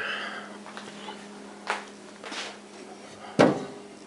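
Microwave oven being loaded, with short rustles and clunks of handling, then its door shutting with a sharp knock about three and a half seconds in. A faint steady low hum runs underneath.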